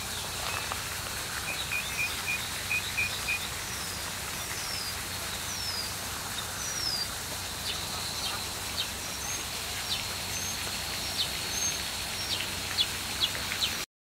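Several songbirds singing and calling: a quick run of about seven short notes, then a few high down-slurred whistles, then sharp high chips near the end, over a steady background hiss.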